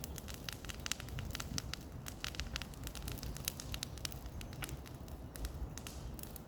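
Bonfire crackling: irregular sharp snaps and pops, several a second, over a low steady rumble.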